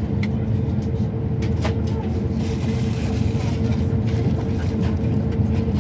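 Steady cabin noise inside an Airbus A350-1000 on the ground: a constant low rumble with a steady hum above it, and a few faint clicks.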